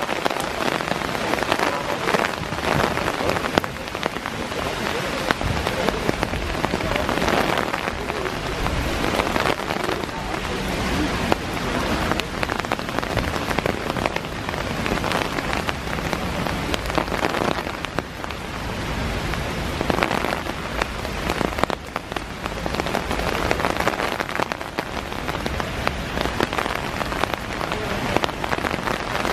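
Heavy rain shower falling steadily, a dense hiss of many drops striking the ground and nearby surfaces.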